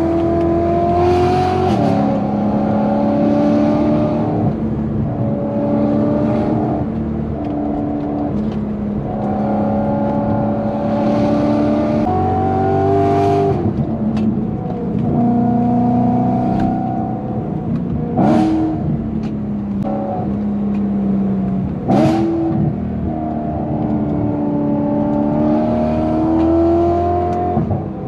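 BMW E90 M3's V8 through a titanium valved exhaust, pulling up through the revs and dropping back again and again as it accelerates, shifts gears and lifts off. Two sharp cracks stand out in the second half.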